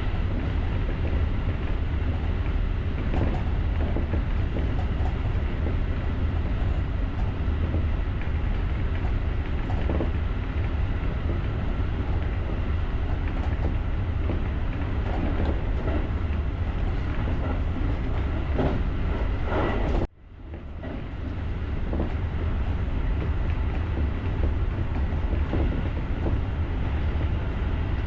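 JR rapid electric train running along the line: a steady low rumble of wheels on rail with occasional clicks and knocks. About twenty seconds in the sound cuts out abruptly, then fades back up over a couple of seconds.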